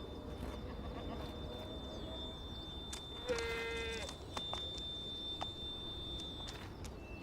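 An ibex bleats once, a short call about three seconds in, with scattered light clicks of hooves on stone.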